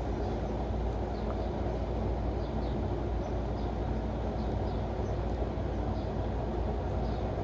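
Steady low rumbling background noise, like a running vehicle or air conditioner, with a few faint small clicks now and then.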